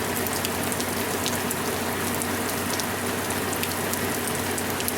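Monsoon rain pouring steadily, with many individual drops ticking sharply on a nearby surface.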